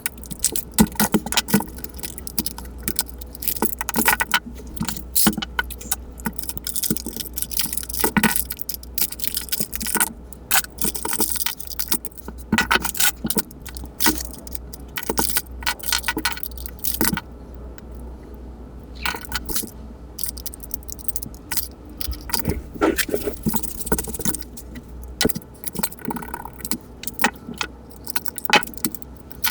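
Hands taking apart a battery-powered plush toy: a busy, irregular run of clicks, taps, scrapes and rustles from its plastic parts and fabric being handled.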